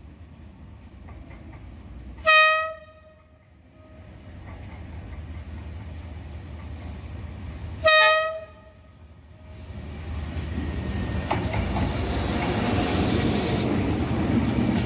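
Two short blasts of a D19E diesel-electric locomotive's horn, about five and a half seconds apart. Then the locomotive and its train draw near, the engine and wheel noise growing steadily louder.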